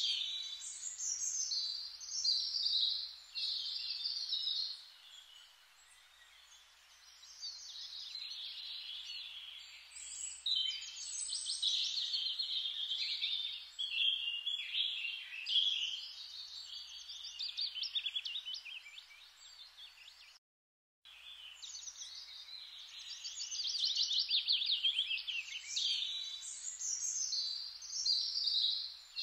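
Birds chirping and singing in a dense chorus of high trills and calls, with a short break of silence a little past two-thirds of the way through.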